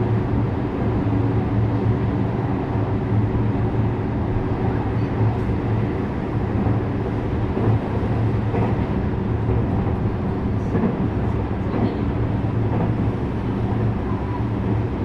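JR West 321 series electric train running, a steady rumble of wheels and running gear with a low hum.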